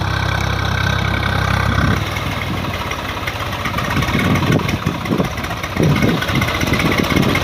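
Swaraj 744 FE tractor's diesel engine running. The steady low hum changes about two seconds in and then goes on unevenly.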